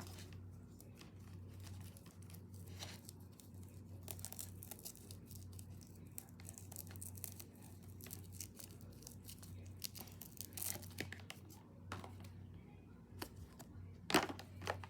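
Faint rustling and crinkling with scattered light clicks as things are handled, over a steady low hum.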